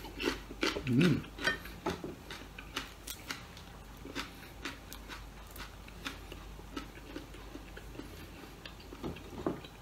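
Close-up chewing of a raw long green chili pepper: a quick run of sharp crunches over the first few seconds, then softer, sparser clicks of chewing and food handling.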